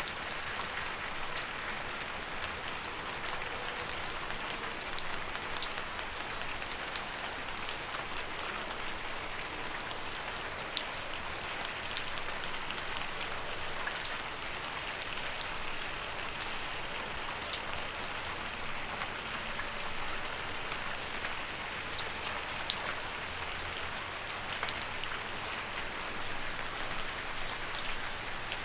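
Steady rain with a continuous hiss and many individual drops ticking sharply on a hard surface, scattered irregularly throughout.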